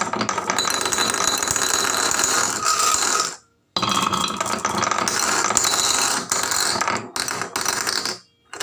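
Rapid clattering of toys rolling down a wooden marble-run track, in two runs of about three and four seconds with a short break between.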